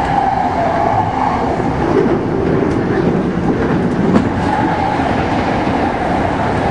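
JR East 209 series electric train heard from inside its driver's cab while running along the line: a steady rumble of wheels on rail with a clickety-clack over the rail joints. In the middle another train passes close by on the next track, with a sharp click a little after four seconds in.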